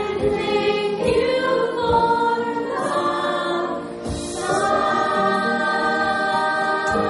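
A group of young voices singing together as a stage musical chorus, moving through several sung notes and then holding one long note from about halfway through.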